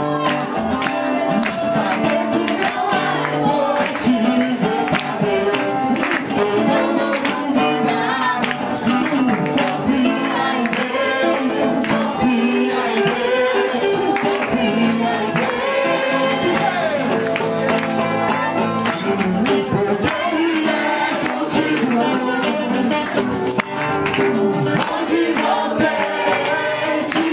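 Loud worship music with singing, a tambourine shaking along to a steady beat.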